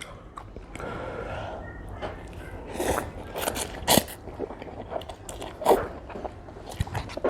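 Close-miked chewing and mouth smacks of someone eating spicy instant noodles, with a run of sharp wet smacks from about three to six seconds in.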